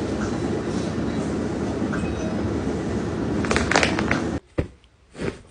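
Steady low rumbling noise with a few sharp clatters about three and a half seconds in. It cuts off abruptly just after four seconds, leaving quieter scattered clicks.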